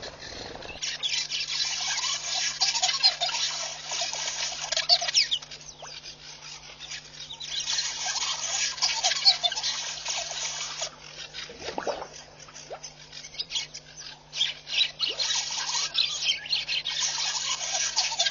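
Several birds calling and chattering together, with a constant low electrical hum underneath.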